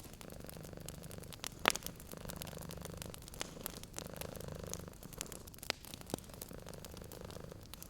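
Domestic cat purring steadily, the purr swelling and easing with each breath, over a wood fire crackling with scattered sharp pops, one loud pop about two seconds in.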